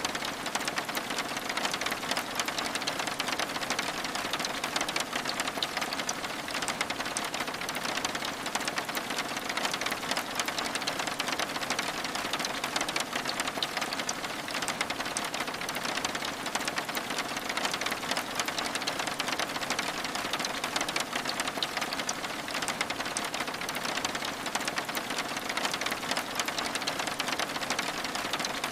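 Steady rain: a dense, even hiss of countless fine drop ticks that holds unchanged throughout.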